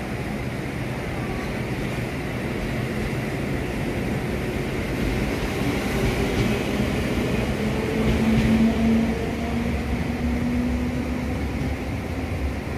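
Train on the Sanyo Main Line running past, its noise building to a peak about eight seconds in, with a steady hum, then easing off.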